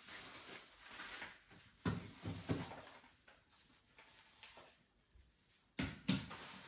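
Household handling noises: a soft rustling hiss, then a few knocks and clatters about two seconds in, and two sharper knocks near the end.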